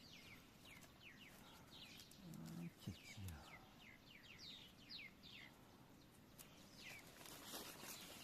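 Faint forest birdsong: many short, quick chirps that sweep downward in pitch, with a brief faint low voice-like sound about two and a half seconds in.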